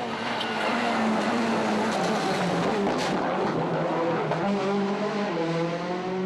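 A World Rally Car's turbocharged engine running hard at speed on a rally stage, heard from inside the car, over a heavy wash of tyre and road noise. The engine note holds fairly steady and steps up and down a few times.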